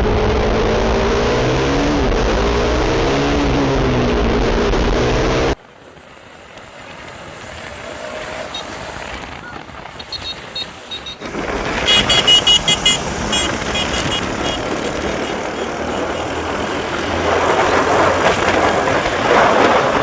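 Motorcycle engine running on the move, its pitch rising and falling with the throttle, over wind rumble. About five and a half seconds in it cuts suddenly to a quieter, busier noise that builds up, with a quick run of high pulses partway through.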